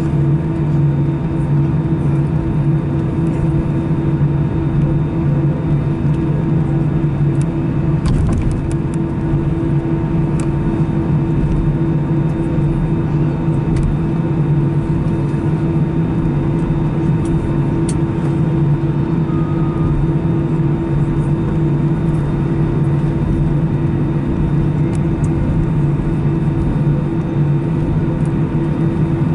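Steady cabin hum of an Airbus A319-111 with its CFM56 engines at idle, heard from inside the passenger cabin as the aircraft taxis after landing. A low, even drone with a steady tone above it, and a few faint clicks about eight seconds in.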